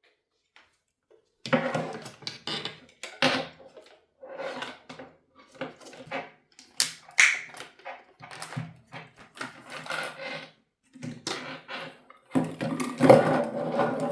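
Irregular clicks, knocks and rustling of objects being handled, starting about a second and a half in and busiest near the end.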